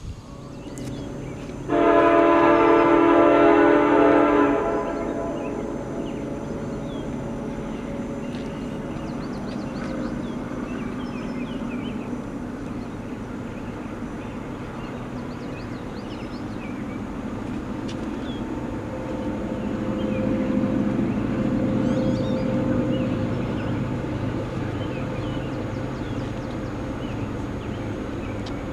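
A diesel locomotive's multi-chime air horn sounds one long blast of about three seconds, followed by the steady rumble of the train rolling past, which swells somewhat near the middle.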